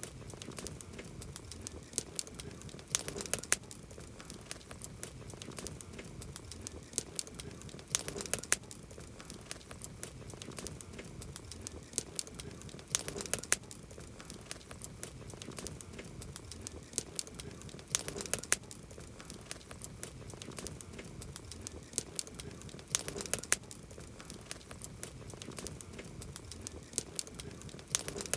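Campfire wood burning: a steady bed of soft crackling with sharp pops, and a cluster of louder pops about every five seconds.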